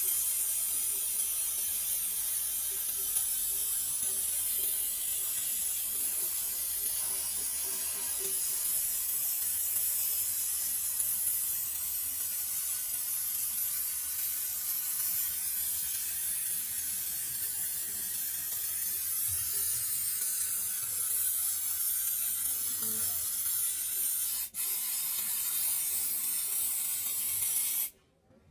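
Steady, high-pitched hiss of compressed air, with a momentary break about 24 seconds in. It cuts off suddenly near the end.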